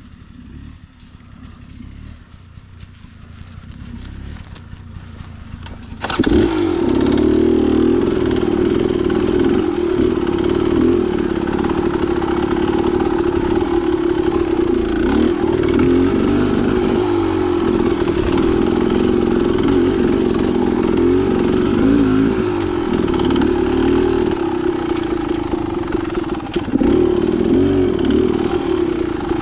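Dirt bike engine running. A quieter low rumble builds over the first few seconds, then about six seconds in the engine sound jumps suddenly to full loudness and keeps running steadily with small rises and falls in pitch.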